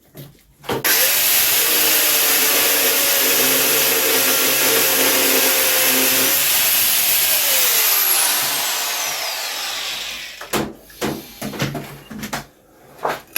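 Angle grinder cutting through the motorcycle's metal EGR pipework and bracket, running steadily for about seven seconds, then winding down with a falling whine once released. A few sharp metal knocks follow near the end.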